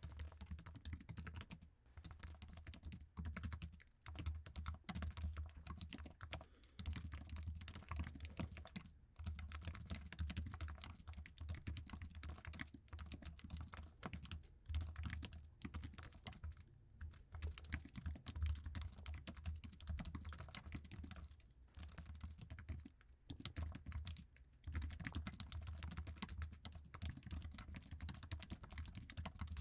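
Fast, continuous typing on an Apple iMac keyboard, its low-travel keys clicking in quick runs broken by brief pauses.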